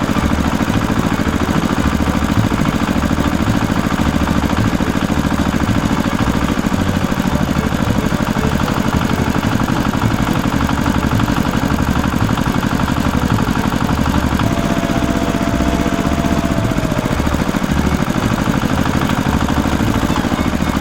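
An engine idling steadily, with a fast, even low-pitched beat.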